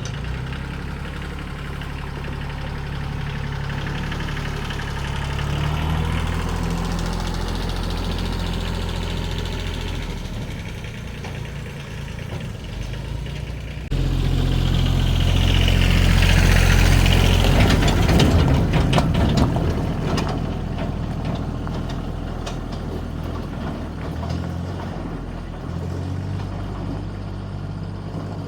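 A motor vehicle's engine running steadily. About halfway through it abruptly becomes louder, with a rush of noise for a few seconds before it settles back to steady running.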